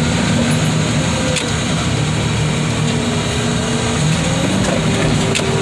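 Heavy equipment's diesel engine running steadily, with a thin whine that wavers slowly in pitch over the rumble.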